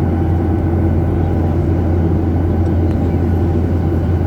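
Jet airliner cabin noise: a loud, steady, unchanging low hum with a rush of air above it.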